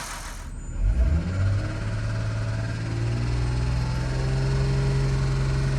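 Ford BF Falcon XR6's 4.0-litre inline-six engine running, its low note stepping up about a second in and then holding steady. The owner suspects the engine's top end is starving of oil.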